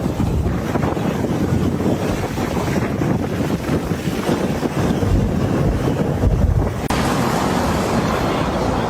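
Blizzard wind gusting hard across the microphone with a low rumble. About seven seconds in it cuts abruptly to a steadier, hissier wind.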